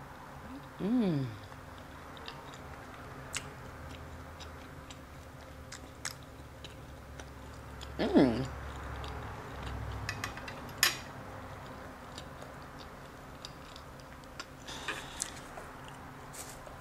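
Close-miked chewing with scattered wet mouth clicks, working on a piece of carne asada that is all hard fat and won't chew down. Two short hummed vocal sounds come about a second in and again around eight seconds.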